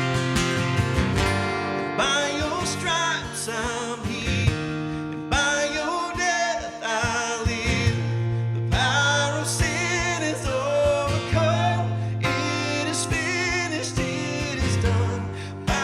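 Worship song: a singer with strummed acoustic guitar accompaniment.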